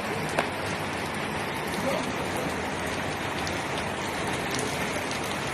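Heavy rain pouring down: a steady, dense hiss of falling water with scattered individual drop ticks.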